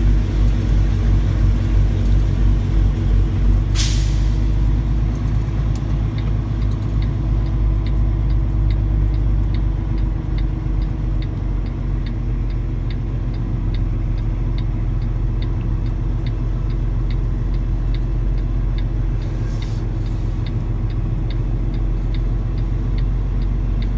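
Semi truck's diesel engine running steadily, heard from inside the cab. There is a short, sharp hiss of air brakes about four seconds in and a fainter one near the end. From about five seconds on comes an even ticking, roughly one and a half ticks a second.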